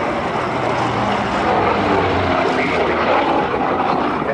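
Piston-engined propeller aircraft flying past, its engine note dropping slightly in pitch as it goes by.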